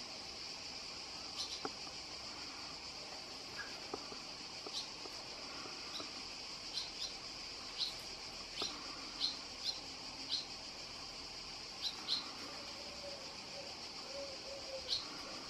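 Short, sharp bird call notes, about a dozen at irregular intervals, over a steady high-pitched insect drone.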